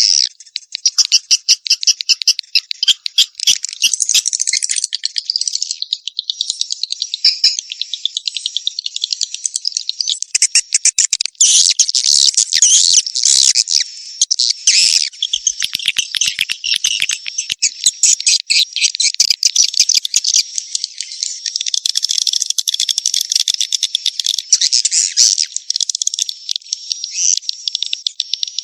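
Swiftlets twittering in a dense, unbroken chatter of rapid high chirps and clicking trills. It is a swiftlet lure call, the recording played in a swiftlet house to draw the birds in to nest.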